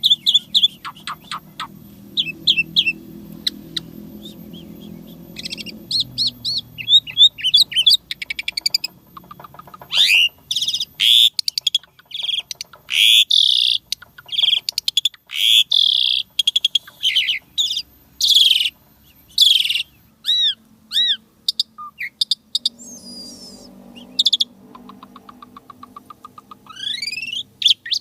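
Asian pied starling (jalak suren) singing a long, varied song of loud sharp whistles and chirps, fast runs of repeated notes, and rising and falling whistled phrases. Quieter low sounds lie under the song in the first few seconds and again in the last quarter.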